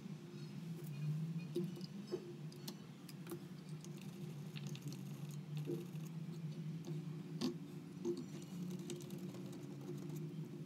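Scattered light clicks and taps, a few sharper than the rest, over a steady low hum.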